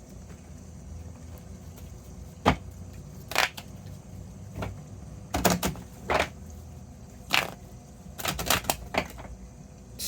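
Tarot deck being shuffled by hand: a series of short, sharp card slaps and riffles, coming faster near the end.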